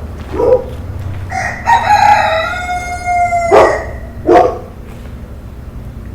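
A rooster crows once, a long call of about two seconds that falls in pitch at its end. Short, sharp calls come about half a second in and twice just after the crow, over a steady low rumble.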